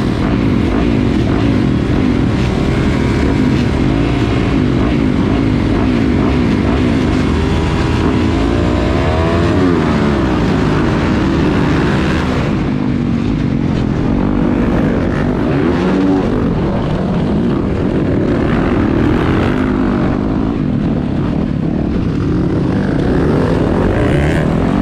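Several motocross motorcycle engines running and revving together, overlapping, their pitch rising and falling as the bikes change speed; one strong rise and fall comes about nine to eleven seconds in.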